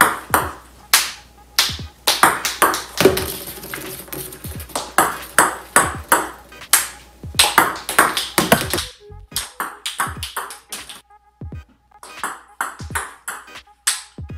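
Celluloid-style table tennis ball clicking sharply and repeatedly as it is struck by a paddle and bounces on the table during practice serves. The clicks come in quick, uneven succession, with a short pause about nine seconds in.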